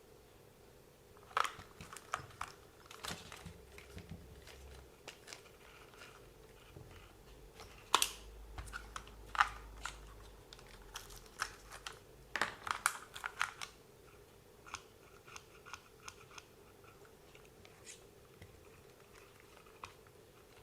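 Small plastic and metal parts of a WLToys 144001 RC buggy being handled and pulled apart during disassembly: irregular clicks, taps and rattles, with busier clusters about a second and a half in, around eight to ten seconds, and around twelve to thirteen seconds.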